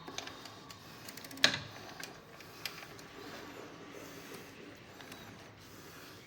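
Bicycle chain and freewheel clicking as the drivetrain is worked by hand. There is a quick run of ticks about a second in, then a sharp click, then scattered lighter clicks.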